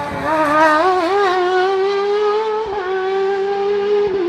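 Race car engine running hard at high revs on a hillclimb, its note wavering at first, then holding steady, with two brief dips like quick gear changes near the middle and at the end.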